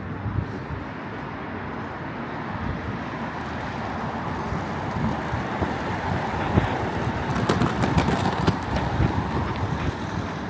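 Street traffic noise: a vehicle's sound builds over several seconds and is loudest about two-thirds of the way in, with a few sharp clicks near the peak.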